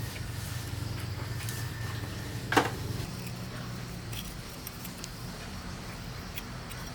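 Metal tools or parts clinking on a workshop bench: scattered small clinks and one loud metallic clank about two and a half seconds in, over a low hum that fades out partway through.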